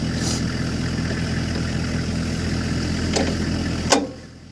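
Military gun truck's engine idling steadily. A single sharp click about four seconds in, after which the sound drops away.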